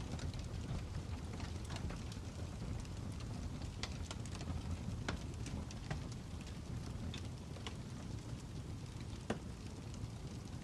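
Wood fire crackling: a steady low rumble with scattered sharp pops and snaps, the loudest about nine seconds in.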